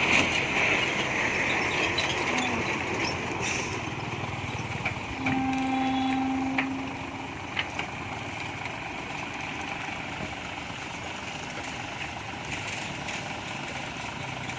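Hyundai 5-ton dump truck's diesel engine running, a steady noisy sound that is louder over the first few seconds and then settles lower. A steady pitched tone sounds once for about a second and a half near the middle.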